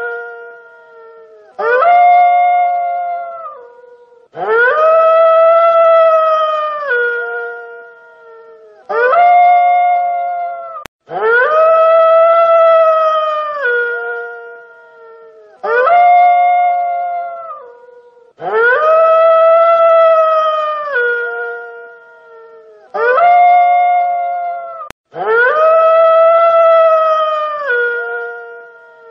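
Wolf howling: a series of clear, sustained howls, each held on a steady pitch and then dropping at the end, a shorter howl and a longer one alternating and repeating about every seven seconds.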